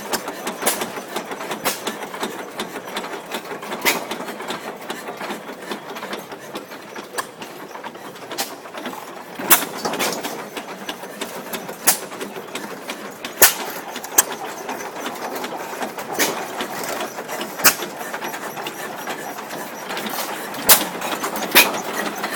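Six-horsepower Waterloo-built antique hit-and-miss gas engine running, firing with a sharp bang at irregular gaps of one to three seconds, with a rhythmic mechanical clatter between firings.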